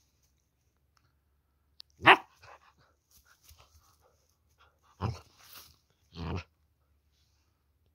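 Anatolian shepherd puppy barking: three short barks, the first, about two seconds in, the loudest.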